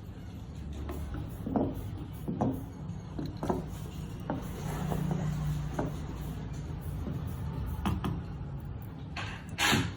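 A series of about seven short knocks and clicks at irregular intervals over a steady low hum, the loudest near the end.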